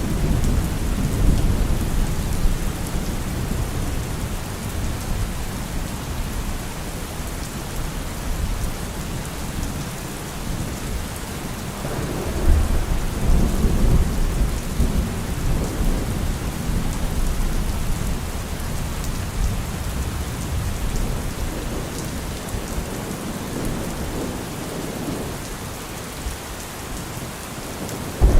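Steady rain falling with low rolling thunder. A louder rumble of thunder swells about twelve seconds in and fades over a few seconds.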